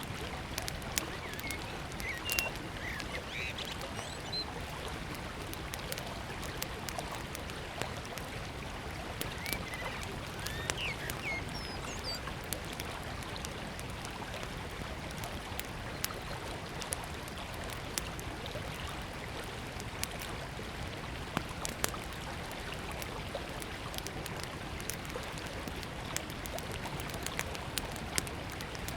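River water running steadily, with a small wood fire crackling in scattered sharp pops and a few bird chirps in the first half.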